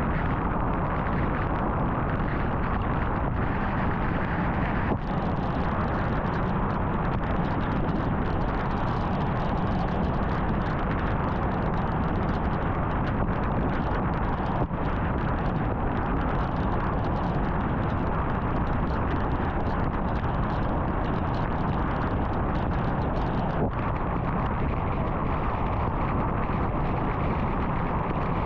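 Steady road noise of a car driving at highway speed: a continuous rumble of tyres and wind.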